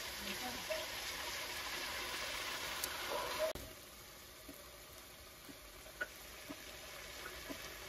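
Diced chicken frying in oil in a nonstick wok, a steady sizzle. The sizzle drops suddenly to a softer level about three and a half seconds in.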